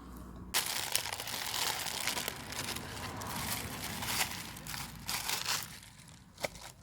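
Dense crinkling and crackling that starts abruptly about half a second in and dies away after about five seconds, followed by a single sharp click near the end.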